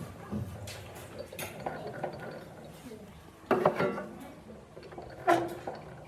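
Hard objects being handled, knocking and clinking: a handful of light taps, with two louder sharp knocks that ring briefly, about three and a half and five seconds in.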